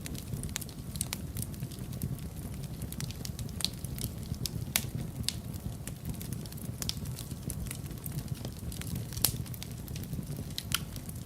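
Wood fire burning in a fireplace: a steady low rumble of the flames with irregular sharp crackles and pops, a few louder pops a little under five seconds and about nine seconds in.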